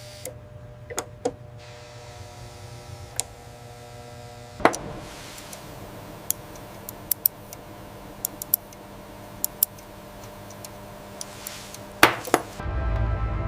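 Scattered sharp clicks and small taps over a steady hum, with two louder knocks, one about five seconds in and one near the end.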